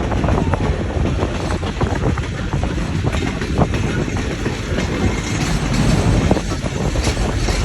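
Passenger train cars running along the track, a steady rumble with scattered knocks and clatter, and wind buffeting the microphone.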